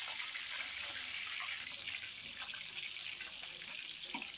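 Cauliflower florets frying in hot oil in a steel pan: a steady crackling sizzle.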